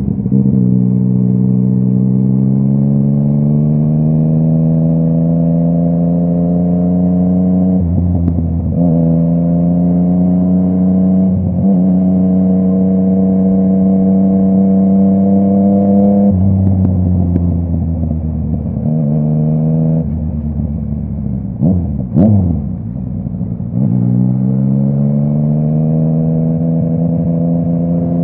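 Yamaha MT-09's three-cylinder engine through a full Akrapovic exhaust, pulling through the gears: the pitch climbs in each gear and drops back at each upshift. About two-thirds of the way in it eases off and slows, with a sharp crack from the exhaust, then pulls away and climbs again.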